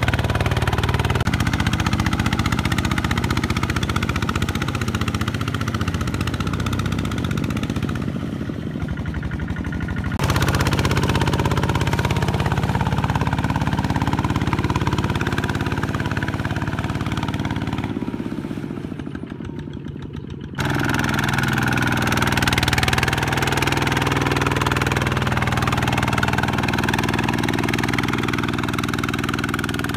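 Mini tractor (power tiller) engine running under load while working in mud, a steady engine note that dips in level twice and comes back abruptly about ten and twenty seconds in.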